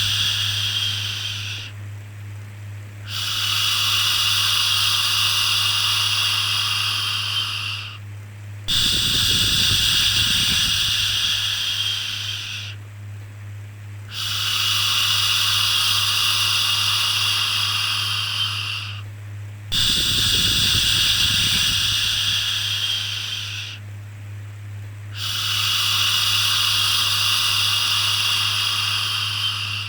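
Repeated long 'shhh' shushing for soothing a baby. Each shush lasts about four to five seconds, with a short pause before the next, over a steady low hum.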